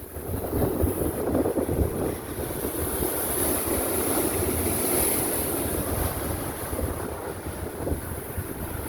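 Big ocean waves surging and breaking against a sea cliff in a continuous surf noise, with wind buffeting the microphone.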